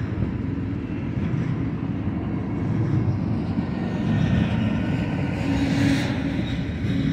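Double-stack intermodal container cars rolling past on the mainline: a steady rumble of freight wheels on the rails.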